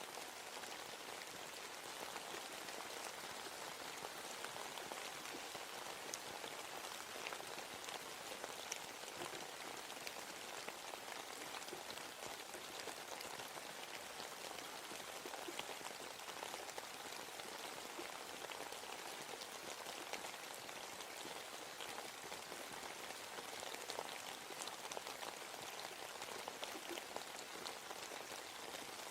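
Steady rain falling in a forest, a constant hiss of rainfall with scattered individual drops pattering on leaves and surfaces.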